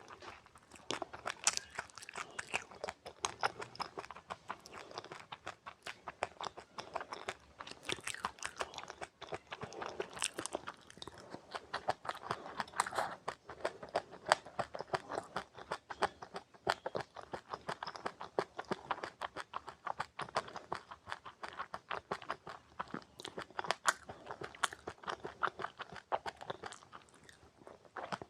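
A person chewing crunchy seeds close to the microphone: a steady run of crisp, irregular crunches and bites.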